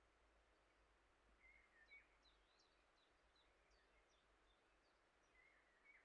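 Near silence with faint birdsong: short chirping phrases, the loudest about two seconds in and another near the end.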